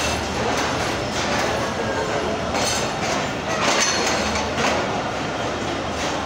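Passenger train coaches rolling past on arrival at a station platform, the wheels clacking over rail joints about once a second.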